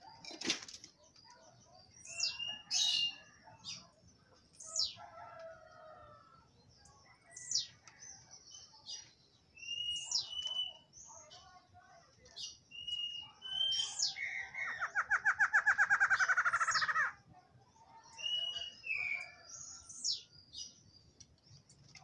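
Barred antshrike singing once, about two-thirds of the way in: a fast run of nasal notes that speeds up, lasting about three seconds. Short sharp bird chirps and brief whistled notes come every second or two throughout.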